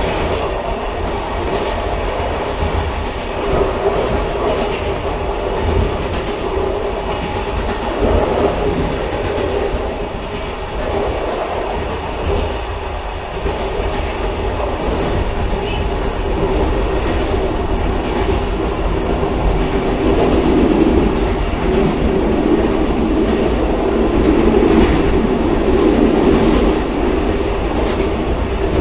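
Railcar running along the track: a continuous rumble with irregular rail clatter, building a little in the second half.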